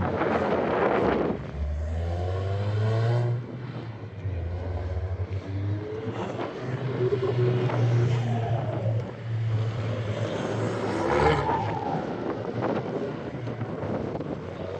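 Car engines running and revving, the pitch rising and falling several times over a steady low engine drone.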